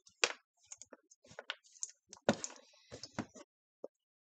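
Scattered light clicks and knocks from kitchen utensils and containers being handled during food prep, the loudest a little past two seconds in.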